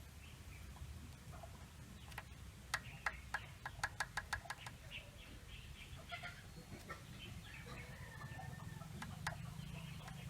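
A quick, even run of metal clicks, about five a second, a few seconds in, from a wrench tightening the valve adjuster lock nuts on a Toyota 4K engine, with scattered single clicks around it. Chickens cluck faintly in the background.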